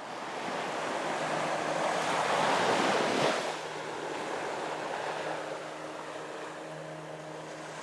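Sea surf washing on a shore: the noise of a wave swells to a peak about three seconds in, then eases back to a steady lower wash.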